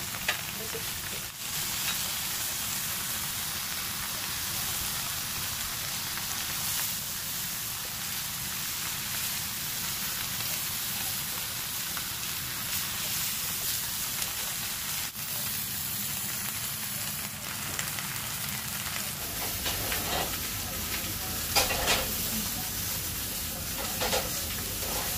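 Food sizzling in a hot pan, a steady frying hiss, with a few short knocks near the end.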